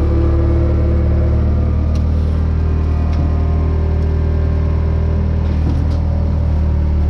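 An engine running steadily at constant speed, with a deep low hum and a few faint ticks.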